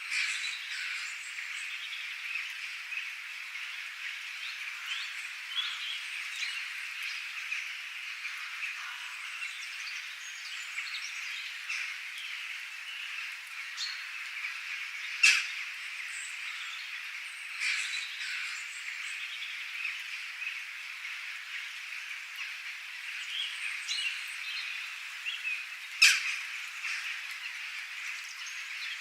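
Wild birds chirping and calling over a steady high-pitched chorus of frogs or insects, with two loud, sharp calls about halfway through and near the end.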